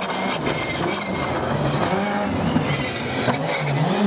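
Rally car engine revving up and down over a noisy background, growing louder toward the end as it draws near.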